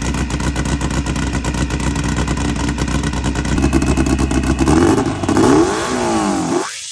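Turbocharged 2276cc air-cooled VW flat-four engine running hard and steady. After about four seconds its pitch climbs and then swings up and down several times as it is revved.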